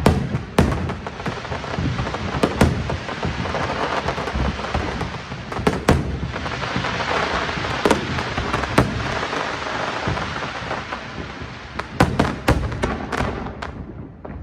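Fireworks display: sharp bangs of shells bursting at irregular intervals, with a quick cluster of bangs about twelve seconds in, over a continuous noisy rumble of further bursts. The noise fades near the end.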